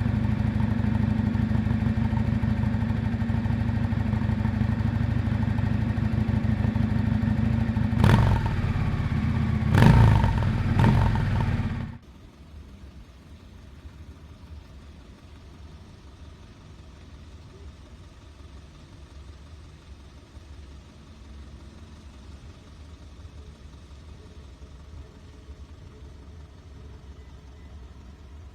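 1998 Yamaha Drag Star 400 Classic's V-twin engine running steadily through its exhaust, with a couple of brief louder bursts, then cutting off suddenly a little under halfway through. A faint low background hum follows.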